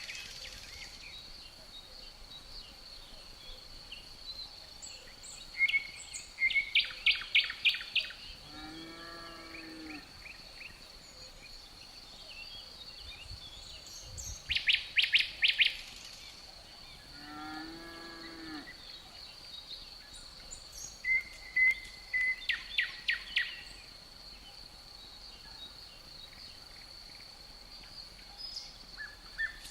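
Forest ambience: crickets keep up a steady high trill while a songbird sings short phrases of rapid, high repeated notes three times. Twice a long, low, drawn-out animal call rises and falls, sounding like a distant cow mooing.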